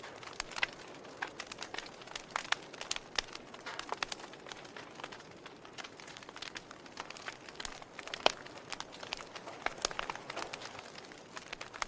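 Fire crackling: irregular sharp pops and snaps over a soft steady hiss, with one louder pop about 8 seconds in.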